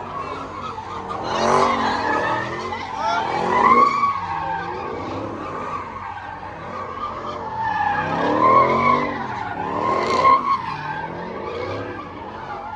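Car tyres squealing while an engine revs up and down, swelling twice in loud surges a few seconds apart.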